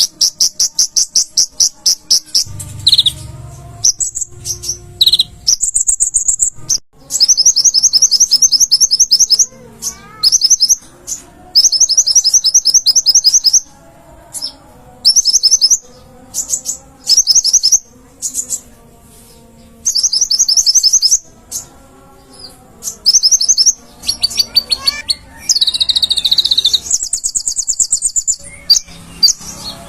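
Konin (kolibri ninja) sunbird singing: rapid, high, rattling trills in bursts of about one to two seconds, repeated again and again with short pauses, and some softer lower twittering between them.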